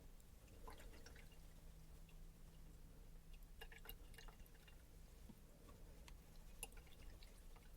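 Paintbrush being rinsed in a cup of water: faint scattered drips and small clicks of the brush against the cup, in a few short clusters.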